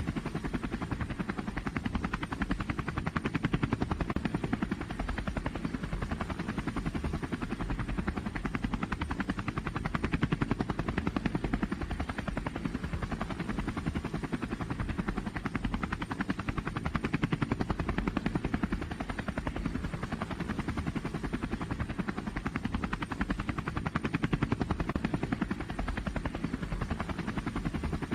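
Loud engine of a pulling vehicle running steadily, with a rapid pulsing beat and a deep, heavy tone that rises and falls slightly in level without stopping.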